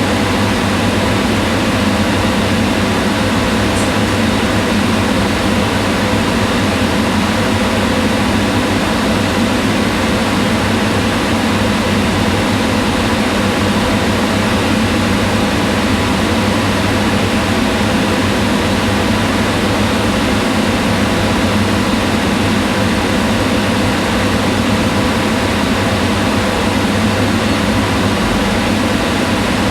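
Kitchen range hood fan running steadily: a constant airy whir over a low motor hum.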